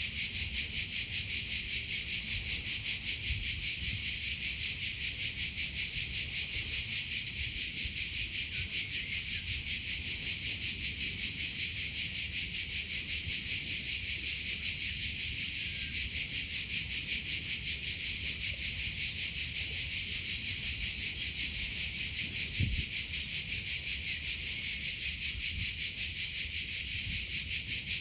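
Cricket chirping steadily: a high, continuous trill made of rapid, even pulses that never lets up.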